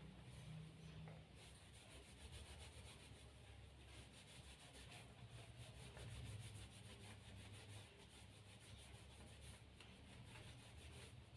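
Faint, steady rubbing of a cloth towel, drying a freshly bathed sugar glider, with many small soft strokes.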